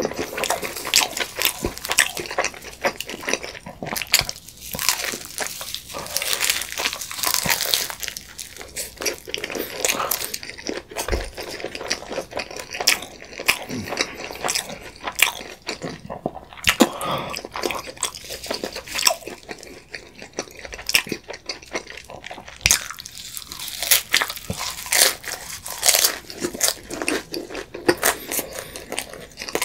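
Close-miked chewing and biting of steak pizza, the crisp crust crunching in repeated irregular bites with wet mouth sounds.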